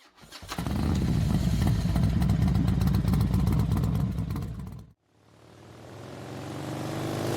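Harley-Davidson Road Glide's V-twin engine running with rapid, uneven low firing pulses, cutting off abruptly about five seconds in. Another engine sound then fades in and rises in pitch toward the end.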